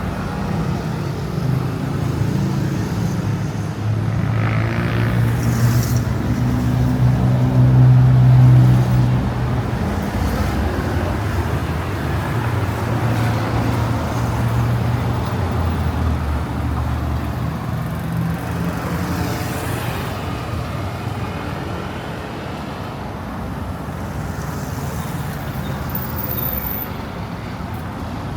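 Street traffic: motor vehicle engines running close by over a steady road noise, getting louder to a peak about a third of the way in and then easing off.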